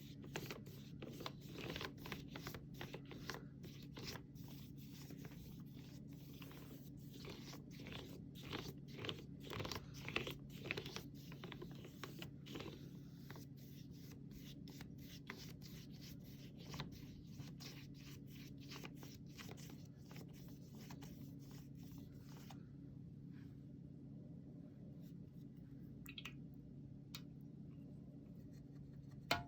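Flat brush dragging acrylic paint across a canvas in quick repeated scratchy strokes, which stop about two-thirds of the way in, leaving only a few faint taps. A steady low hum runs underneath.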